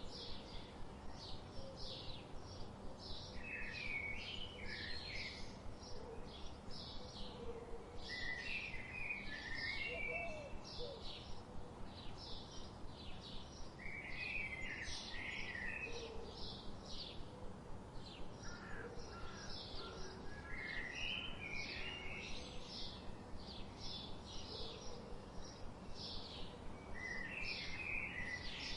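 Birds chirping: a steady run of short, high chirps, with a lower, warbling phrase breaking in every five or six seconds.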